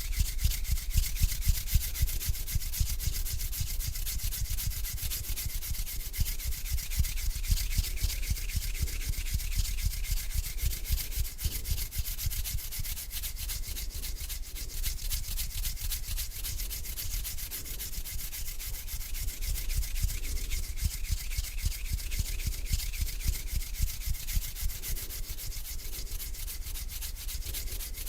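Palms rubbed together close to the microphone, a continuous dry scratchy rubbing with slow swells about once a second.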